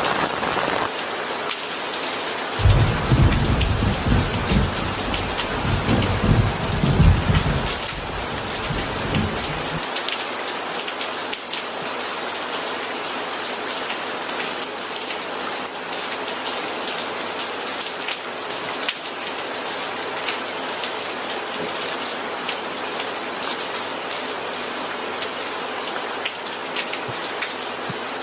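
Steady rain pattering on a surface. A low rumble of thunder rolls in about two seconds in and fades out after about ten seconds.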